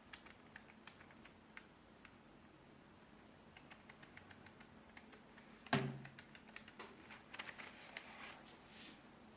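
Keys of a wireless computer keyboard being typed on in scattered, irregular clicks. One louder knock comes a little past halfway, followed by a quicker run of keystrokes.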